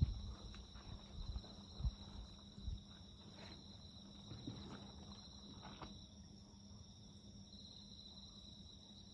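Crickets singing steadily in a continuous high trill, with a few knocks and crackles from a wood campfire in the first three seconds.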